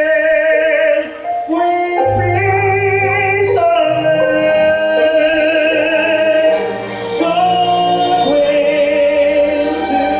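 Children's choir singing with a string orchestra: held, wavering notes that change every second or two, the music dipping briefly about a second in and again about seven seconds in.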